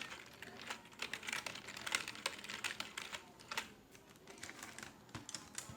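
Computer keyboard typing: quick, irregular keystrokes, in bursts with a short pause past the middle.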